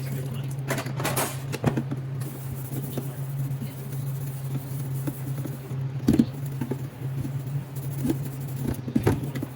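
Kitchen items being handled: scattered knocks, clinks and scrapes over a steady low hum.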